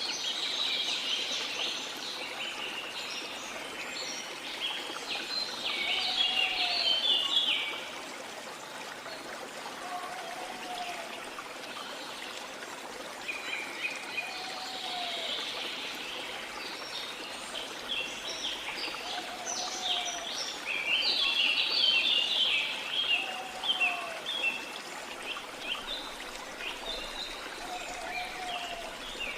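A stream flowing steadily, with forest birds chirping in dense bursts over it. A short, low, arching call repeats about every four seconds.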